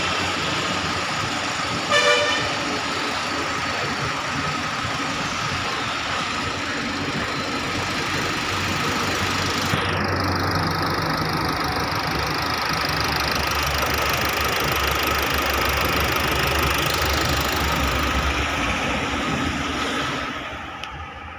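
Car engine running steadily during an engine carbon clean, under a constant hiss and a thin steady whine. A short car horn toot comes about two seconds in, and the sound drops away just before the end.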